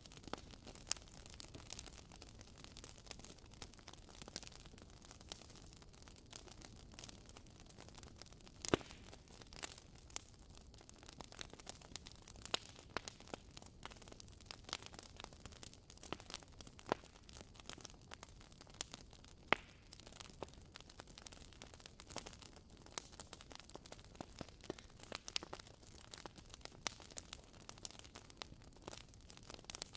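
Wood fire burning in a fireplace: a quiet, steady crackle of logs with irregular small pops and snaps, a few louder ones standing out.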